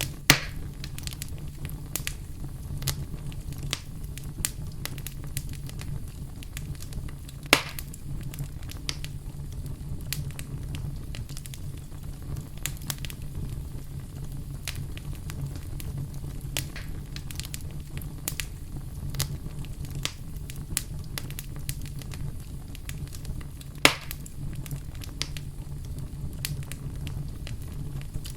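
Campfire burning with a steady low rumble and frequent small crackles of burning wood, with three louder sharp pops: one at the start, one about a third of the way in, and one near the end.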